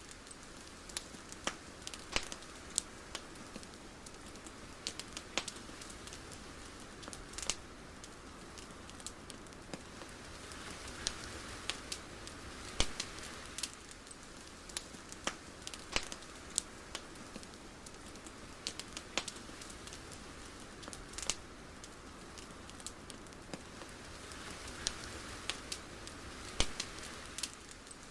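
Soft, steady hiss with irregular sharp crackles and pops, swelling gently twice.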